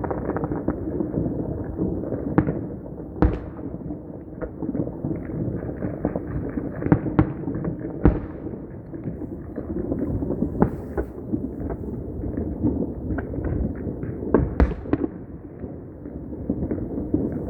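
Fireworks and firecrackers going off: a continuous dense crackle of rapid small pops, with several louder bangs standing out, the biggest near the end.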